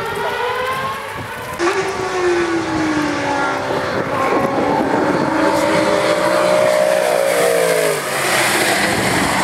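Mercedes SLS AMG's V8 engine running on a race circuit. Its note falls, then climbs steadily for a few seconds as the car accelerates, and drops back near the end.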